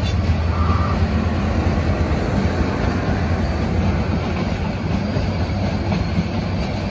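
Bangladesh Railway intercity train's passenger coaches rolling past: a steady rumble of wheels on the rails.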